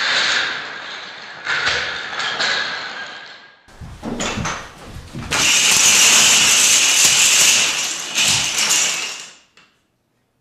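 Thin wooden building planks clattering down onto a wooden floor as tall plank towers collapse, a dense rattle lasting about four seconds that dies away to silence near the end.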